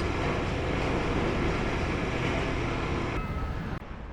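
Loud, steady rumbling noise of a demolition excavator working with its pincer grab, which drops off suddenly near the end.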